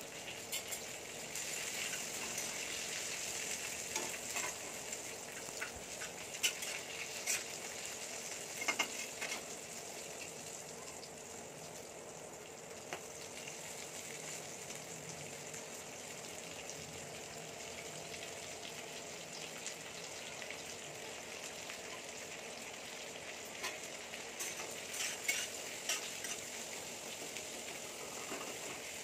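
Sliced onions, ginger and green chillies sizzling steadily in hot oil in a kadhai. A spatula scrapes and clinks against the pan a few times as they are stirred.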